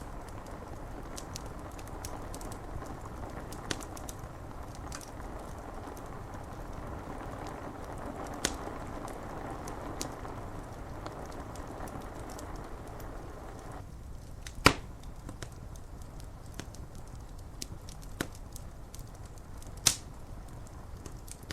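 Wood fire crackling, with scattered sharp pops, the loudest two well into the second half, over a steady rumble and the rushing hiss of rain on window glass. The rain hiss cuts off suddenly about two-thirds of the way through.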